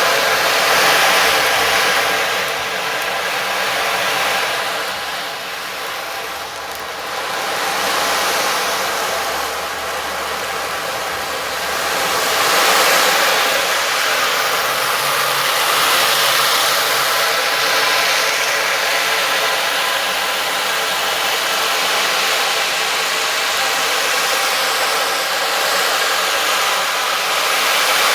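Sound-bath instrument played continuously: a dense wash of many ringing overtones over a rushing hiss, swelling and easing every few seconds, with a dip a few seconds in.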